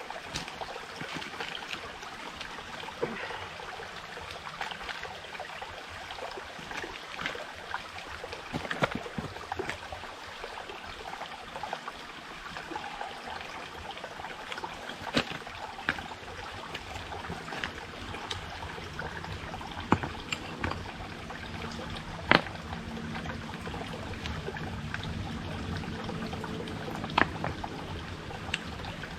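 Forest stream running steadily, with a few sharp knocks of camp gear being handled.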